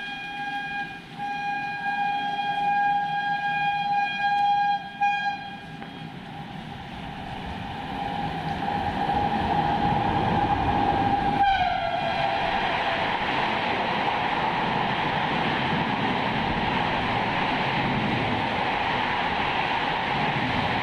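A long train horn blast, with a short break about five seconds in, that drops in pitch as the locomotive passes about eleven seconds in. After that comes the steady rushing rumble of an express train's coaches running through the station at speed without stopping.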